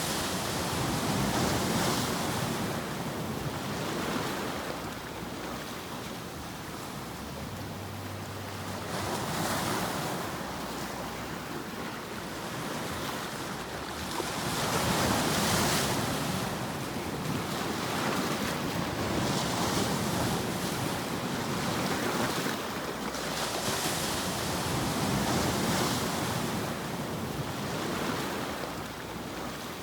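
Ocean surf: waves washing in, a steady rush of noise that swells and eases every few seconds.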